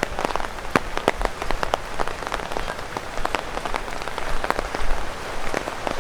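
Rain pattering on an umbrella, with larger drops falling from tree leaves: many irregular sharp taps over a steady hiss of rain.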